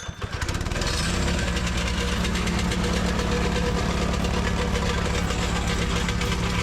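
Diesel engine of a Cat 307SSR mini excavator running steadily. It builds up over the first second, then holds an even, rhythmic beat.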